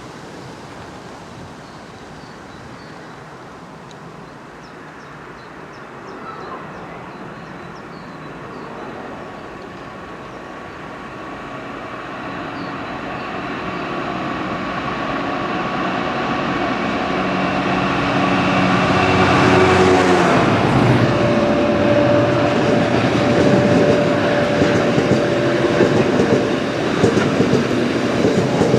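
A train approaching and passing at speed: its running noise builds steadily, a steady whine drops in pitch as it goes by about two-thirds of the way through, and the rolling noise of the train stays loud to the end.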